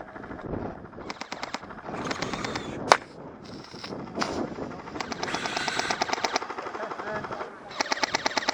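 Airsoft guns firing on full auto in several rapid bursts, about a dozen shots a second, with one sharp crack about three seconds in.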